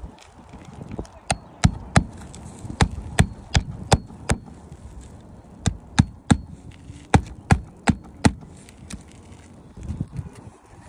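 Hammer blows in short runs of three to five strikes, about three a second, with brief pauses between runs, as in roofing repair work on shingles and nails.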